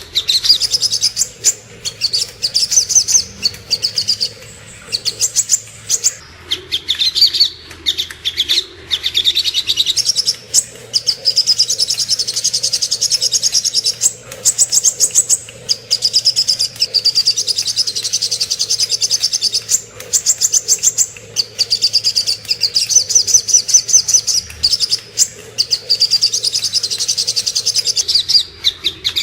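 Sogok ontong bird singing: fast, sharp, high-pitched chirps repeated in quick rattling runs a second or two long, with short pauses between runs.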